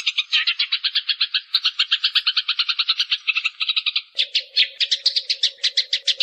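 Eurasian tree sparrows chirping in a rapid, unbroken string of about ten chirps a second. About four seconds in the chirps turn sharper and more widely spaced, and a faint steady hum joins them.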